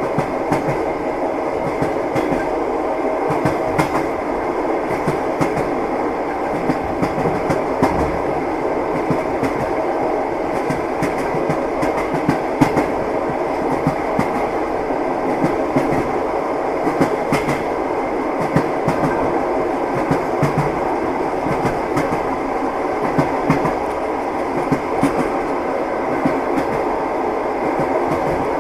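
Train wheels clicking over rail joints, a clickety-clack of sharp knocks every few seconds over the steady rumble of a moving railway carriage.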